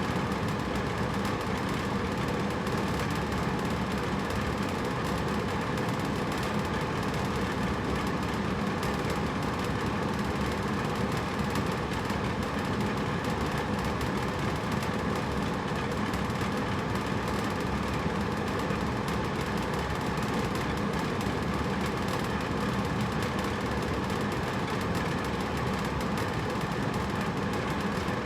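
Hotel room air conditioner running: a steady, unchanging rush of air with a low hum beneath it.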